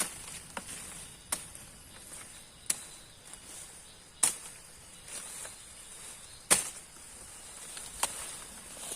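Insects chirring steadily at a high pitch, broken by seven sharp, irregular cracks a second or two apart, loudest about four and six and a half seconds in.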